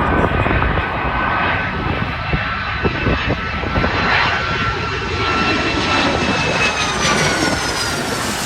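Jet airliner's engines whining and roaring as it comes in to land, the whine sagging slightly in pitch near the end. Gusty wind buffets the microphone.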